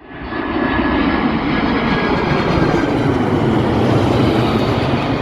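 Loud, steady noise of a heavy vehicle: a deep engine rumble mixed with hiss. It swells in quickly at the start and then holds level.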